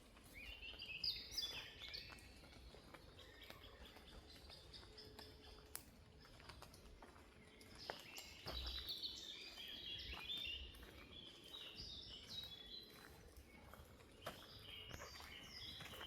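Songbirds chirping in a forest, in three bouts of quick stepped notes: near the start, for several seconds around the middle, and again near the end, with faint ticks and clicks in between.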